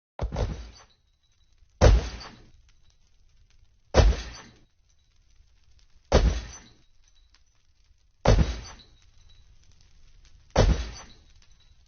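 Six loud crashing impacts at an even pace, about two seconds apart, each with a short ringing tail.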